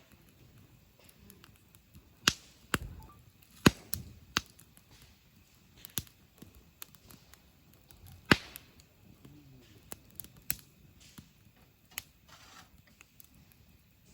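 Wood campfire crackling: sharp, irregular pops and snaps, a few of them loud, over a faint steady hiss.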